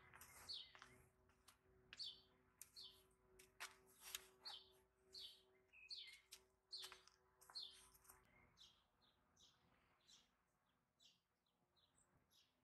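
Small birds chirping and twittering in quick, short calls, fairly quiet; the calls thin out after about eight seconds.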